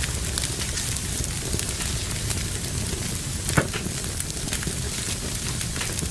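Fire in a fireplace crackling steadily with a low rumble, many small snaps and one louder pop about three and a half seconds in.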